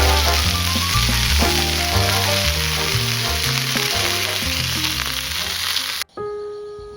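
Food frying in a pan, a steady sizzle that cuts off suddenly about six seconds in, over background music that carries on as piano.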